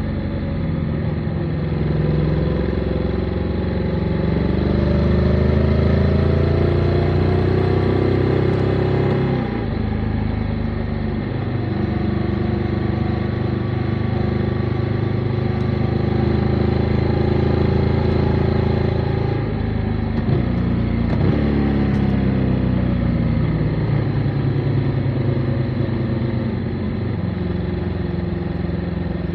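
Motorcycle engine pulling on the road. The revs climb for several seconds, then drop suddenly about nine seconds in with a gear change. It runs steadily after that, with another quick dip and pickup about two-thirds of the way through.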